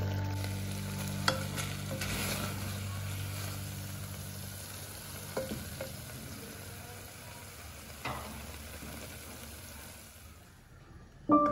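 Beef sizzling as it fries in a pressure cooker pot while being stirred with a spatula. The spatula knocks sharply against the pot a few times: about a second in, twice around five and a half seconds, and once around eight seconds. Piano music starts right at the end.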